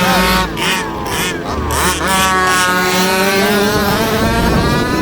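Engines of several 1/5-scale RC cars running together, revving up and down in pitch as they drive around.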